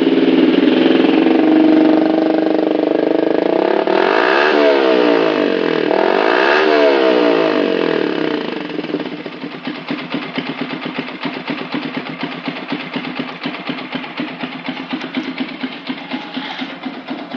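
Yamaha New Vixion's 150 cc single-cylinder four-stroke running through an R9 NG-series aftermarket exhaust, blipped twice near the middle. About nine seconds in it drops to a quieter, lumpy idle with an uneven pulse.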